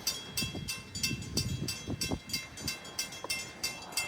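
Grade-crossing bell ringing steadily, about three strikes a second, signalling that the gates are down for an approaching train. Low rumbling and a few thumps sound under it in the first half.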